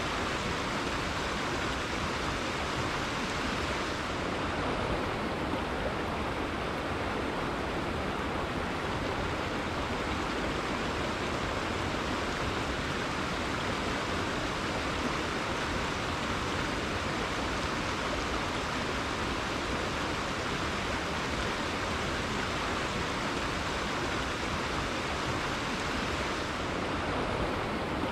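River water flowing and rushing over rocks in a steady, unbroken wash of noise.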